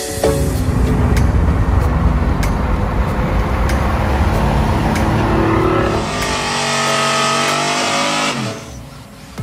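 Pickup truck engine running hard under acceleration, then a steadier pitched engine note whose pitch falls away near the end.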